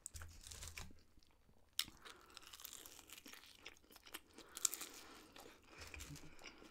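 Close-miked crunching as a person bites into and chews a crispy fried spring roll, with scattered sharp crackles, the loudest a little past the middle.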